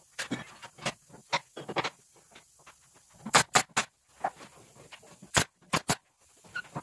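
A run of irregular sharp knocks and clicks, the loudest clustered about three and a half seconds in and again around five and a half to six seconds.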